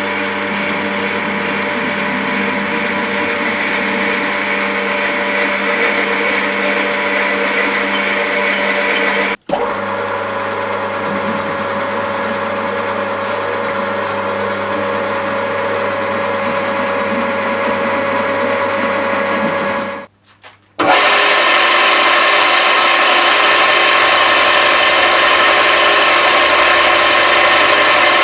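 Electric machinery running steadily with a constant motor hum. It breaks off abruptly twice, and after the second break a louder, brighter-pitched machine runs on steadily.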